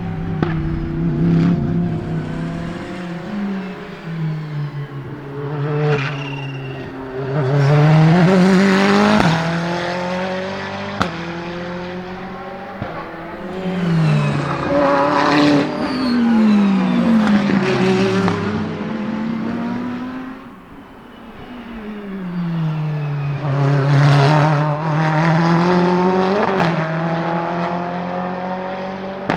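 Ferrari 488 GTE race car's twin-turbo V8 passing at speed several times. The engine note climbs through the gears and falls away, with sharp cracks on the upshifts.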